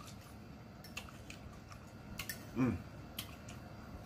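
A person eating salad: faint, scattered clicks of chewing and mouth smacking, with one short hummed 'mm' from the eater about two and a half seconds in.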